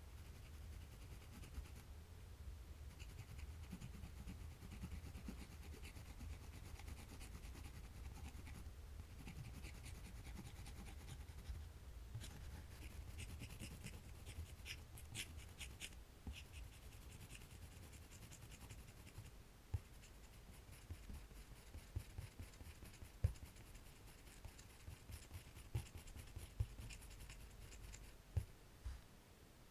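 Faint scratching of a drawing tool on paper in quick short strokes, with a few soft taps in the second half.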